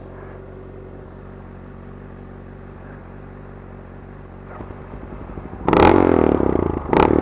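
Honda CBR600RR inline-four engine running at low revs with a steady hum. About four and a half seconds in it starts to rise, and a second later it gets much louder as the throttle is opened.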